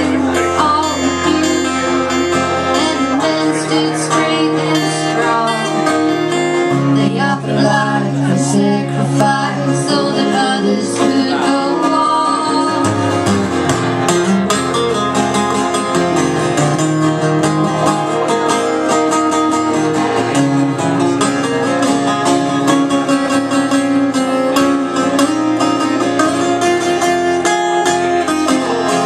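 Live old-time string band music: acoustic guitar played steadily, with a voice singing over it.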